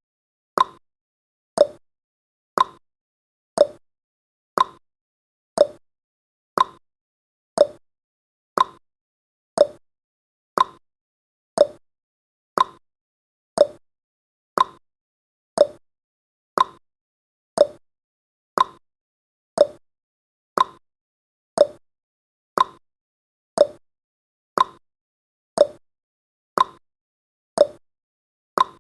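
Countdown timer's clock-style ticking sound effect: short sharp ticks evenly spaced at about one a second, seemingly alternating higher and lower like a tick-tock.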